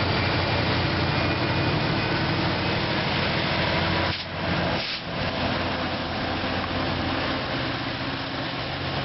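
Caltrain diesel-hauled commuter train passing close by: the locomotive's engine runs with a steady low hum over the train's rolling noise. The sound dips briefly twice, about four and five seconds in.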